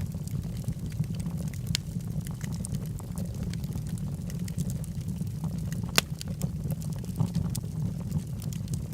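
Wood fire burning in a fireplace: a steady low rumble of the flames with scattered sharp crackles and pops from the logs, one louder pop about six seconds in.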